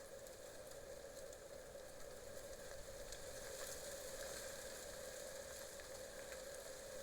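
Faint, steady trickle and hiss of water in a shallow creek running low, with a light crackle, a little louder in the middle.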